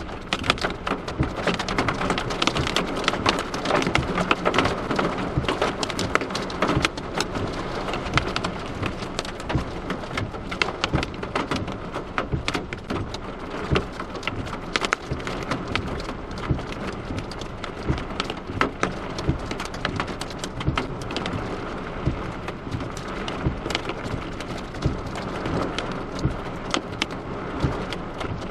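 Heavy storm rain mixed with hail beating down on hard surfaces: a steady hiss packed with quick, irregular sharp hits.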